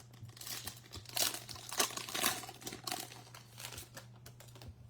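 Trading card pack wrapper crinkling and tearing as it is ripped open, a run of crackles loudest in the middle.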